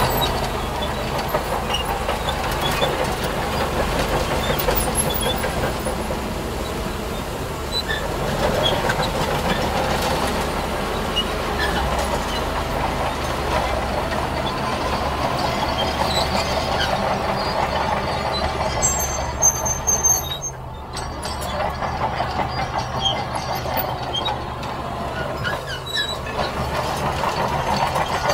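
Heavy earthmoving machinery at work: a diesel engine running steadily under a continuous metallic clatter and rattle, with a short dip in the noise about two-thirds through.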